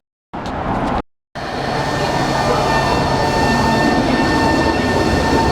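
Tokyo subway train at the platform, a steady rumble with a whine of several held tones that grows stronger about two seconds in. The sound cuts out twice briefly in the first second or so.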